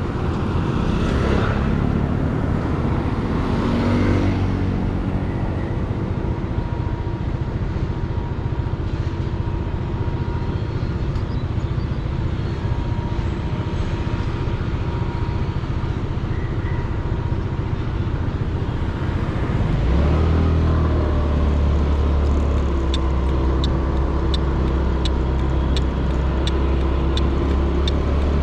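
Motorcycle riding noise picked up by a helmet-mounted GoPro Hero 8 behind a foam wind-noise sponge: wind and road rumble with the engine, which revs up in the first few seconds. About twenty seconds in, a deep steady hum comes in, and near the end there is a regular ticking, about two ticks a second.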